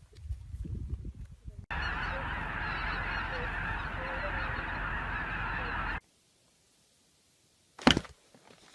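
A flock of geese honking all together in a dense, continuous clamour for about four seconds, cutting off suddenly. A single short sharp sound follows near the end.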